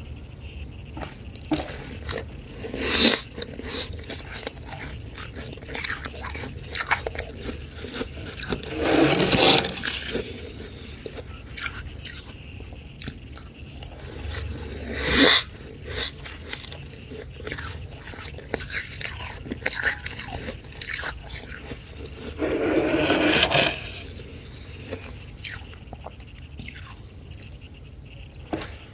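Close-up crunching and chewing of freezer frost eaten by mouth: many small crisp crackles, with a few louder, longer bursts of crunching.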